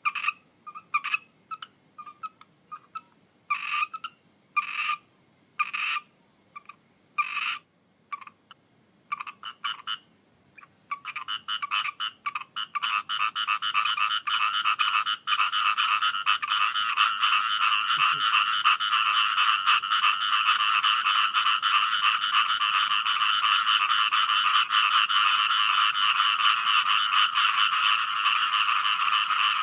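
Frogs croaking: scattered separate calls for the first ten seconds or so, then a dense, continuous chorus builds up and holds steady.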